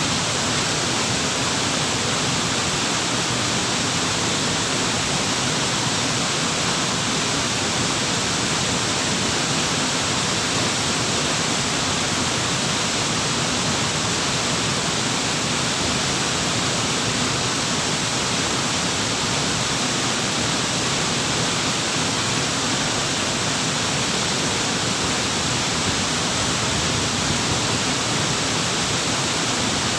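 Waterfall: water pouring down in a steady, unchanging rush of noise.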